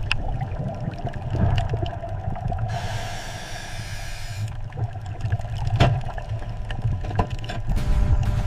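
Water sounds over a steady low rumble, with a hiss about three seconds in that lasts nearly two seconds, scattered clicks, and one sharp knock near the middle.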